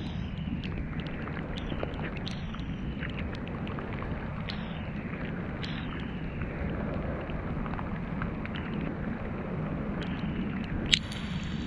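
City street ambience: a steady rumble of traffic with scattered light clicks and taps, and one sharp click a little before the end.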